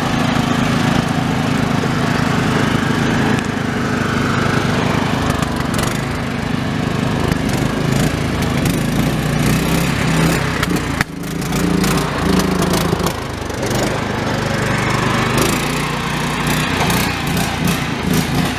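Riding lawn mower engines running hard, their pitch shifting now and then, with scattered sharp clicks and knocks and a brief drop in level about eleven seconds in.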